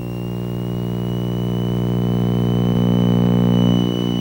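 Cabin drone of a Piper Seneca's twin piston engines and propellers, swelling and then easing slightly, with a high steady tone over it that edges slowly up in pitch.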